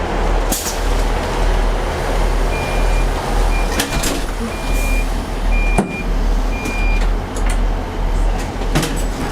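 Mobility scooter's reversing beeper sounding about five times, roughly once a second, as the scooter backs up, over a loud steady low rumble with a few knocks.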